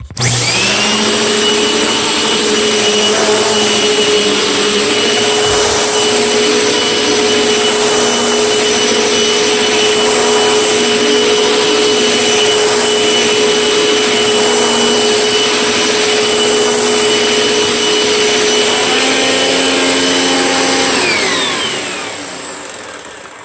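An old Panasonic Performance Plus Platinum vacuum cleaner is switched on and runs with a steady high whine over its motor noise for about twenty seconds. It is then switched off, and the whine falls in pitch as the motor winds down near the end. The vacuum is old but working, and sounds okay.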